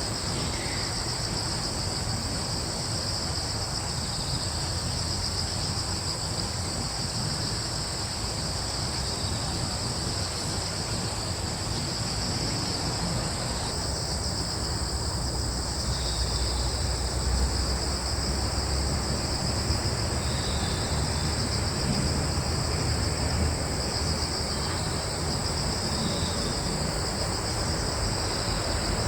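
Crickets trilling in a steady, unbroken chorus, a continuous high-pitched sound, over a low rumble of breeze that swells a little midway.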